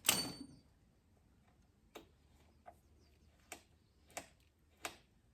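A sharp metallic clack, then a string of light clicks about every two-thirds of a second from hand work on a motorcycle's fuel tap and tank.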